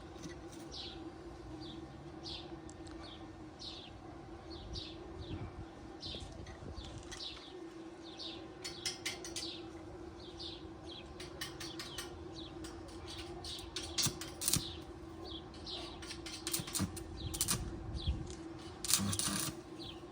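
A small bird chirping over and over in short, quick, falling notes, with scattered clicks and knocks of handwork and a steady low hum underneath.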